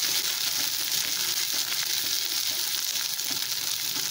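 Ginger-garlic paste frying in hot oil with browned onion and cumin paste in a metal karahi, sizzling steadily while a metal spoon stirs and scrapes the pan.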